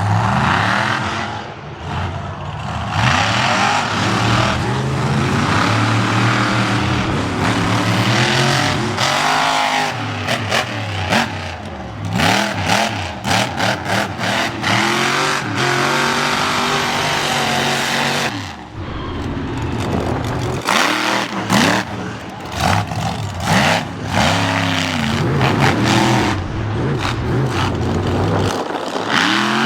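Monster truck engine revving hard and dropping back over and over during a freestyle run, broken by sharp knocks and bangs.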